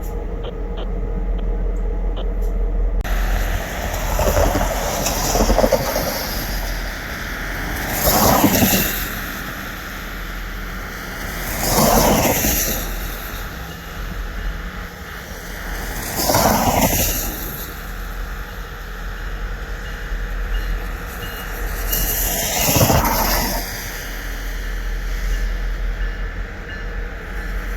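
Freight train cars rolling slowly past over jointed track, with a steady low rumble. About every four to five seconds the wheels of one car after another clatter over a rail joint.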